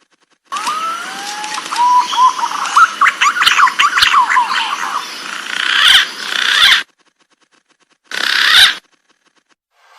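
Green pigeon (punai) calls: whistled notes gliding upward, breaking into a quick run of sharp, rising notes, then two short hissing bursts. The sound cuts off abruptly between parts.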